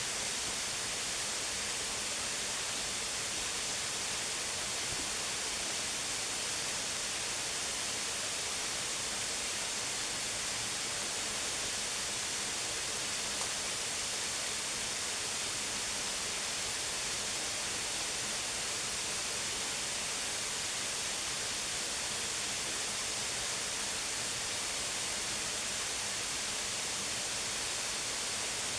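Steady rush of a waterfall: an even hiss that does not change.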